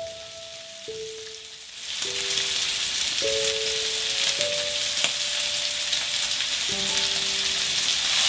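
Food sizzling on a camping grill: a steady hiss of frying that swells up loudly about two seconds in and keeps going, over a simple background melody of held notes.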